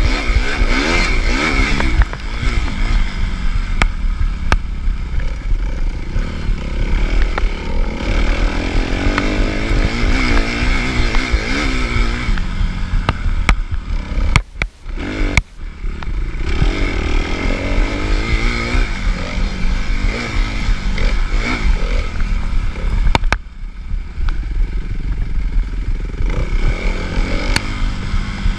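Suzuki RM-Z250 motocross bike's single-cylinder four-stroke engine revving up and down repeatedly under racing load, with occasional sharp knocks. About halfway through, the engine sound drops away almost completely for a moment, then picks up again.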